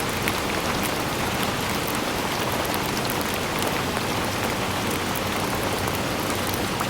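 Steady rainfall, a dense even hiss with many individual drops ticking on surfaces.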